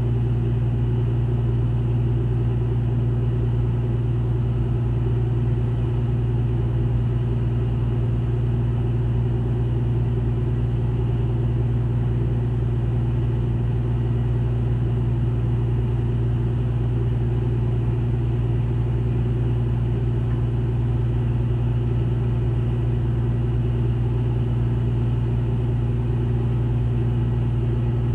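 Steady low drone of a ship's diesel engine running at an even speed, with no change throughout.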